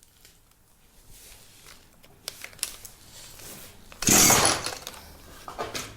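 Small handling clicks, then about four seconds in a single sharp pull on the recoil starter cord of a Makita two-stroke string trimmer. The engine does not catch.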